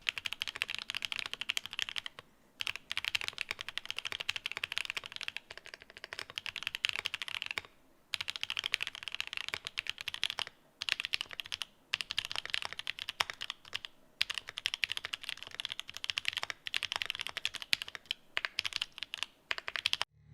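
Fast typing on a Mode Eighty mechanical keyboard with pink linear switches and Cherry-profile PBT keycaps: a dense run of key clacks, broken by several short pauses.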